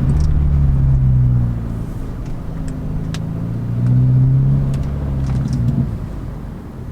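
Car engine running under way with road noise, its note swelling twice as it speeds up and eases off.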